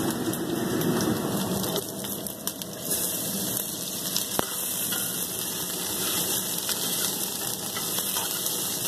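Diced raw potatoes sizzling steadily in hot oil in a stainless steel pot, with a metal spoon stirring them and one sharp clink of the spoon on the pot a little over four seconds in.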